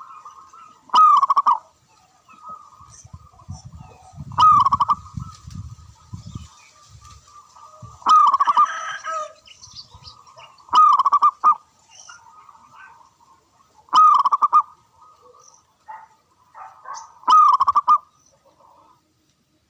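Zebra dove cooing: six short, rapidly pulsed coos repeated every three seconds or so, each one loud and clear. A low rumble runs underneath around the second call.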